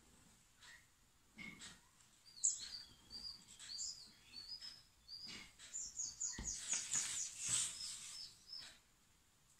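Bird chirping: a string of short, high chirps that come quicker and louder for a couple of seconds in the second half.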